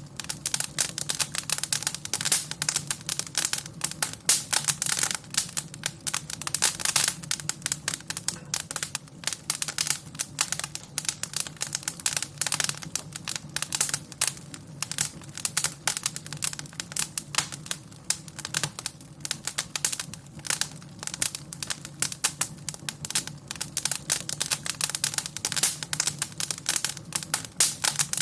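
Wood fire crackling and popping in a fireplace: dense, irregular snaps throughout, over a low steady hum.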